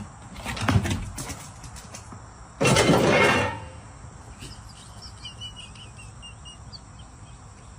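A loud burst of noise lasting about a second, followed by a series of faint, short, high chirps.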